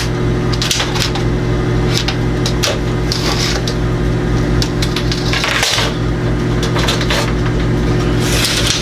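A steady machine hum, with irregular rustling and light clattering from handling on top of it a few times.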